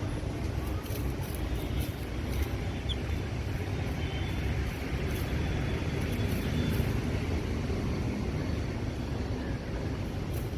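Steady low rumbling outdoor background noise, with a single faint short high chirp about three seconds in.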